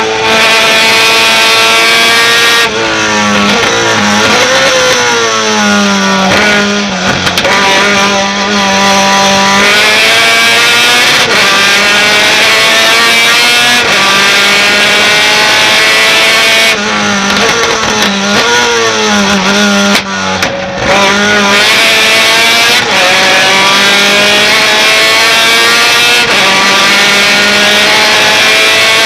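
Race pickup truck's engine at full throttle, its pitch climbing steadily through long pulls. Twice it lifts off, with the pitch dropping and wobbling through downshifts for a corner, then pulls hard again.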